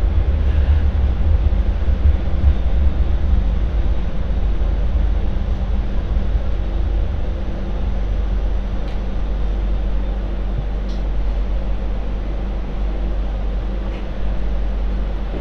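MTR Light Rail Phase IV light rail vehicle running on track: a steady low rumble with a faint hum, and a few light clicks in the second half.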